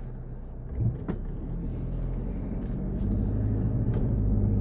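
Car engine and road noise heard from inside the cabin, with a sharp click about a second in; the engine hum grows louder from about three seconds in.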